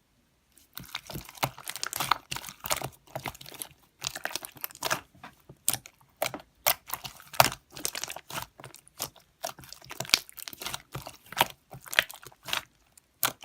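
Rapid, irregular crunching and crackling, starting about a second in.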